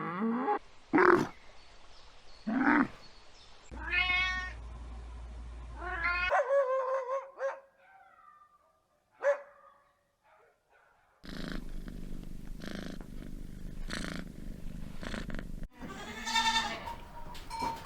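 Domestic cat meowing: a series of short separate calls a second or two apart, some rising and falling in pitch. In the later part comes a stretch of rough, pulsing noise before a last meow near the end.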